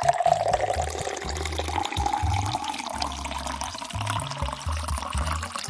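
Liquid pouring into a cup, the pitch of the pour slowly rising as the cup fills, over background music with a steady bass line.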